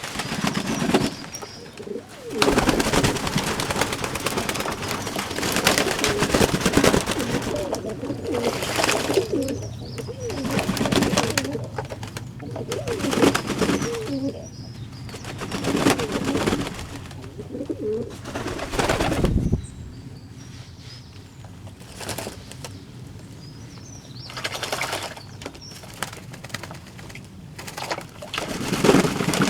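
Fantail doves cooing, low and repeated, with loud rustling noise swelling and fading through the first two-thirds.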